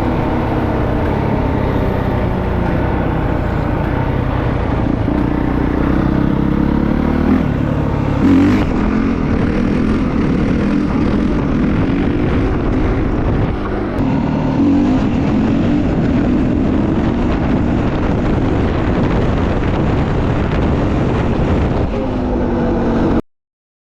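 Honda CRF450R dirt bike's single-cylinder four-stroke engine running, its pitch rising and falling several times with the throttle. The sound cuts off suddenly near the end.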